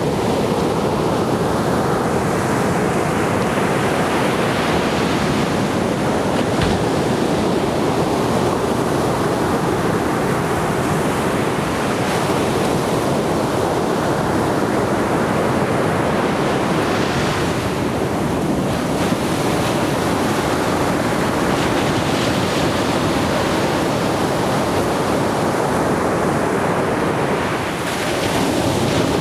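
Atlantic Ocean surf breaking on a beach: a steady, unbroken wash of waves, with a few breakers swelling louder and hissier, then fading.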